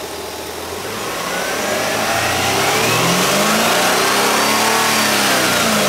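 2004 Hyundai Sonata's 2.7-litre V6 engine revved by hand at the throttle with no load: it climbs smoothly and steadily from idle over about four seconds, holds briefly, then starts to drop back toward idle near the end.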